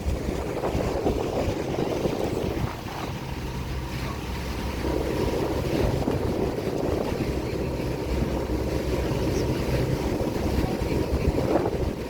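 Cruise boat's engine running steadily under the rush of wind on the microphone, the wind swelling and easing.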